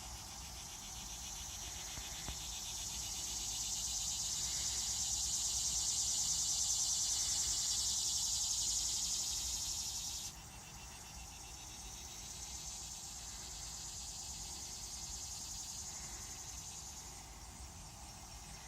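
Steady, high-pitched insect chirring outdoors. It swells over several seconds, drops off abruptly about ten seconds in, then carries on more softly.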